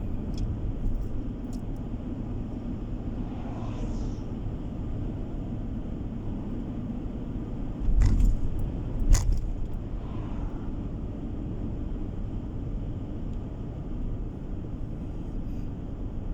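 A car driving along a road, with a steady low rumble of road and engine noise. About halfway through come two sharp thumps about a second apart, the loudest sounds here.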